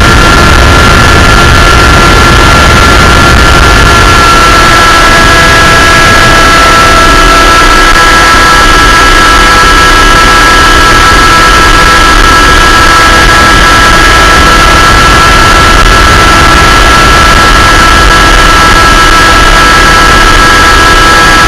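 Aircraft engine running steadily in flight, heard from on board, very loud with a dense rushing noise and a steady whine whose pitch dips slightly about four seconds in.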